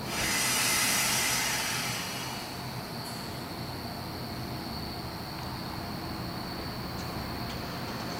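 A sharp hiss of air for about two seconds from the approaching NJ Transit Arrow III electric multiple-unit train, then the train's faint low running hum. Under it runs a steady, high-pitched insect trill.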